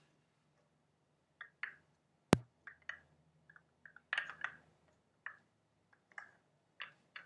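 Close-miked ASMR trigger sounds: scattered soft clicks and taps, with one sharp, loud click a little over two seconds in.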